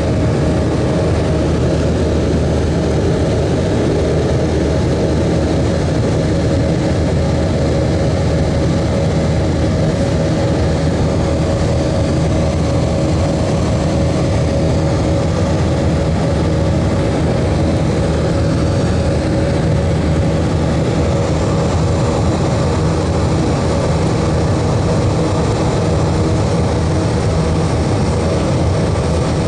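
Steady engine and airflow noise of an Airbus A320-232 with IAE V2500 engines after takeoff, heard from the cabin: an even drone with a few steady hum tones under a broad hiss.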